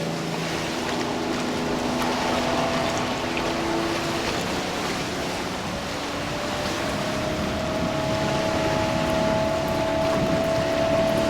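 Jet-drive motorboat with a MerCruiser 4.3 V6 engine running, with water and wind noise. Its engine note shifts and then climbs slowly, getting louder over the last few seconds.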